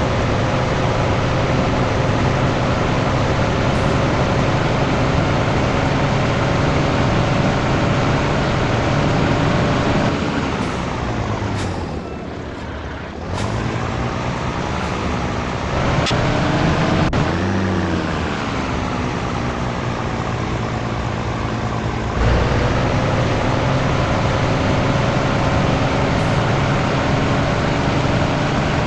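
Scania T113 truck's diesel engine running on the move, its note climbing slowly. About ten seconds in the revs fall away and it goes quieter, with a few short hisses of air. The revs then come back up, there is a click, and about 22 seconds in the engine note steps up again and climbs slowly.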